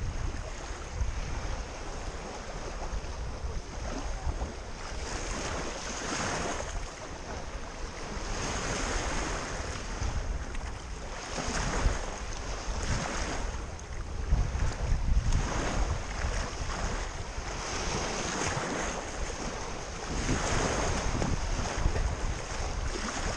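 Black Sea waves washing in, swelling and falling away every two to three seconds, with wind rumbling on the microphone.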